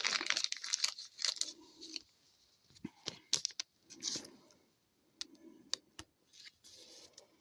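Hockey trading cards being handled and flipped through by hand: scattered light clicks and short rustles, busiest in the first few seconds.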